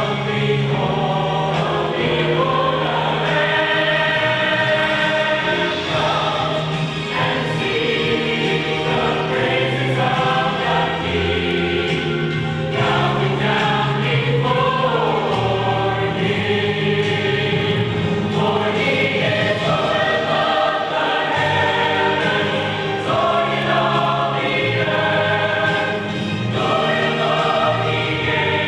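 A choir singing with accompaniment, long held chords shifting every few seconds over a steady low bass line.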